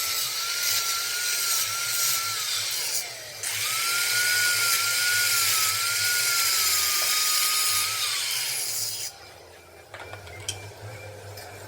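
Handheld electric power tool running under load, its whine dipping and recovering as it bites into metal. It winds down and stops about three seconds in, starts again at once, and winds down once more about eight seconds in, after which there are a few light clicks.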